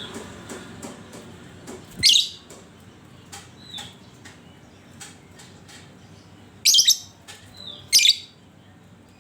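Lovebird calling: three loud, short, harsh shrieks, one about two seconds in and two close together near the end, with faint short falling chirps and small clicks between them.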